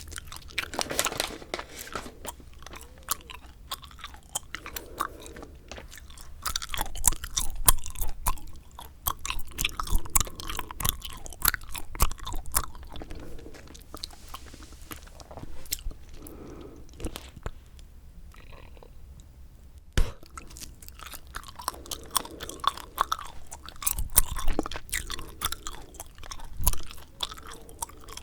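Bubble gum being chewed close to the microphone: wet smacking and clicking in irregular bursts, with short quieter pauses and one sharp click about two-thirds of the way in.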